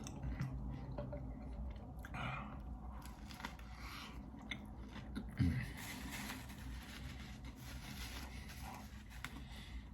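Close-miked chewing and biting into a steak burger, with crackly mouth sounds and crunches. A dull thump, the loudest sound, about five and a half seconds in.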